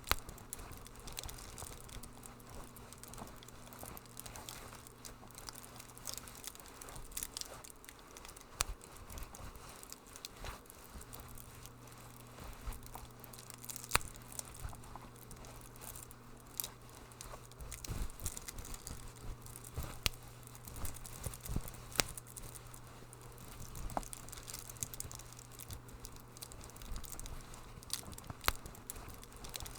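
Wood fire crackling in a fireplace, with many scattered sharp pops over a low steady hum.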